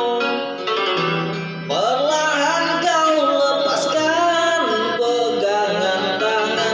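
Music: a voice singing long, sliding held notes over instrumental accompaniment, the voice coming in about a second and a half in.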